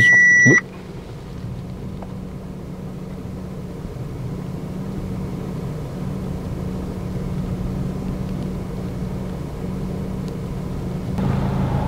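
A short electronic beep right at the start, then the Audi A4's 2.0 TFSI turbocharged four-cylinder idling steadily, just restarted on a freshly flashed Stage 1 ECU tune.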